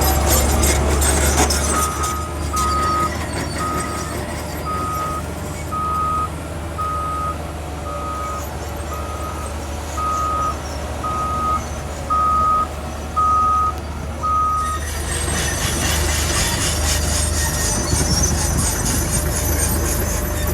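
Reversing alarm on a heavy earthmoving machine, beeping at one pitch about once a second, thirteen times, over the low rumble of its engine. The beeping stops a few seconds before the end, and a louder rushing noise takes over.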